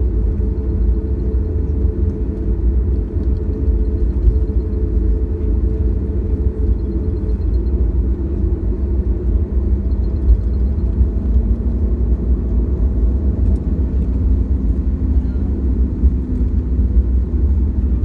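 Steady low rumble of a Boeing 737-800 with its CFM56-7B engines running, with a hum that settles to a lower pitch about halfway through.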